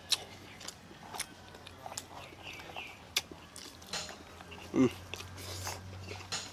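Close-up eating sounds of grilled steak and rice eaten by hand: chewing and lip smacks with scattered small clicks, and a short low grunt just before five seconds in.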